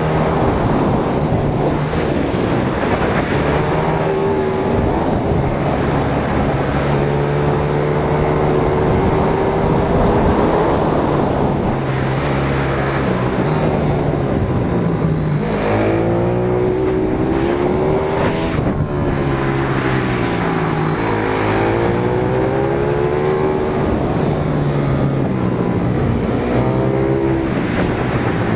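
Pit bike engine heard onboard, revving up and dropping back again and again as the rider accelerates out of and brakes into the corners of a kart track. Around the middle, two engine notes at different pitches overlap.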